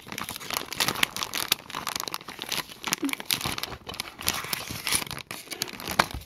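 Packaging being crinkled and torn open by hand to unbox a B-Daman toy, a dense run of irregular crackles with a sharp louder click near the end.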